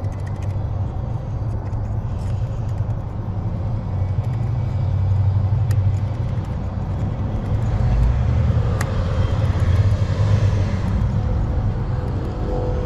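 Steady low rumble like a running vehicle engine, swelling a little now and then, with a few faint sharp ticks over it.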